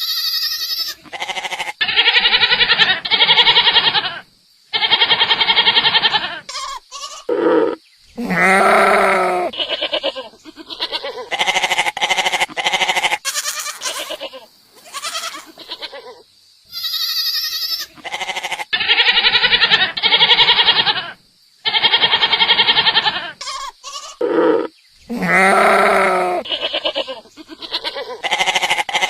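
Goats bleating: a series of loud, wavering calls, one after another, with short pauses between them.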